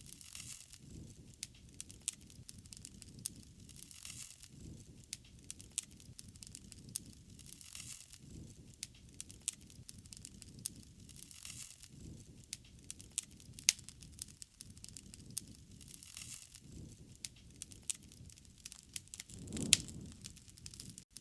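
Wood fire burning, crackling with scattered sharp pops over a low rushing sound that swells every few seconds; the loudest pop comes near the end.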